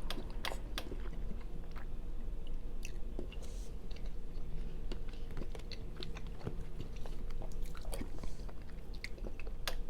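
Close-miked mouth sounds of a person chewing a spoonful of white chicken chili, with many small wet clicks scattered throughout, over a steady low hum.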